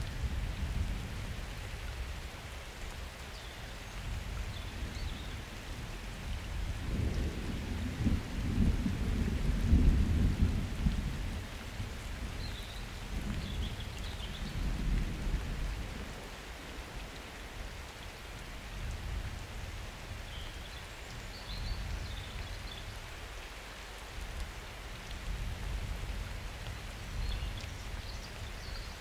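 Summer thunderstorm: steady rain with low rolling thunder that swells to its loudest about a third of the way through, then a smaller rumble a few seconds later and weaker rumbles after.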